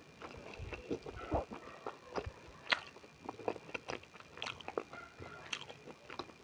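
Close-miked chewing of beef momo dumplings: irregular wet mouth smacks and clicks, a few each second.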